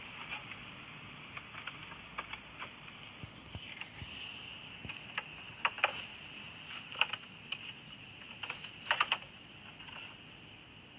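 Steady high-pitched insect drone, with scattered short sharp ticks and clicks, several coming in quick pairs.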